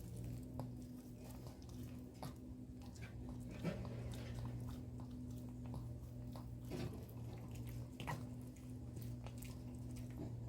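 A dog eating, with a few short, sharp chewing clicks spread out over a steady low electrical hum.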